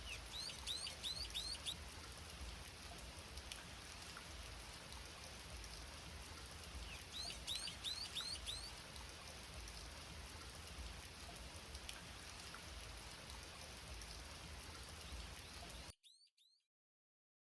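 Steady hiss of rain with a bird calling twice, each time a quick run of about five high, downward-sweeping chirps. The sound cuts off suddenly near the end.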